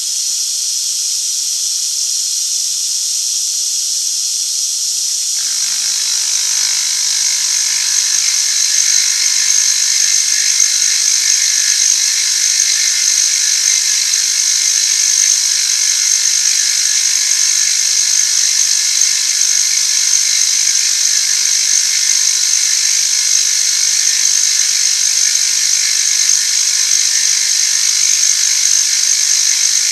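Machine tool running steadily as its cutter takes a cut along the metal side face of a part. About five seconds in the sound shifts and a low hum joins in.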